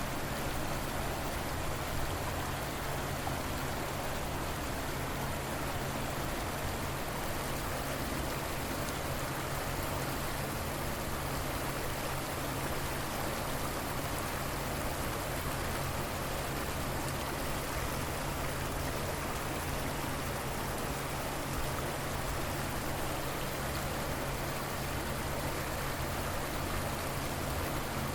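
River water flowing past the bank: a steady, unbroken rushing hiss.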